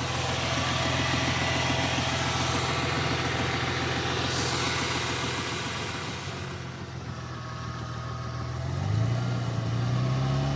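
2000 Ford Mustang's 3.8-litre V6 idling with a rapid tick or tap, which the owner takes for a noisy lifter. About nine seconds in the engine speed rises briefly.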